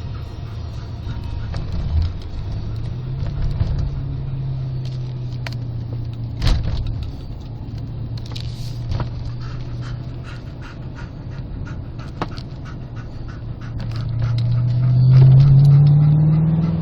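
BMW 540i V8 engine through its new exhaust under way: the engine note steps up about three seconds in and holds steady, then climbs and grows loudest from about fourteen seconds in as the car accelerates. Scattered light clicks and rattles sound over it.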